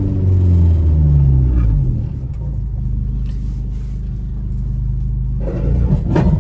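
Engine and road rumble inside the cab of a lowered VW Saveiro pickup on the move. The engine's pitch shifts during the first couple of seconds, then holds steady. A short burst of noise comes near the end.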